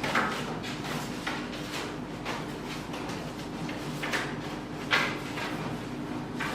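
Paper flashcards being taken down and handled: scattered rustles and light knocks, the louder ones about four and five seconds in, over a low steady hum.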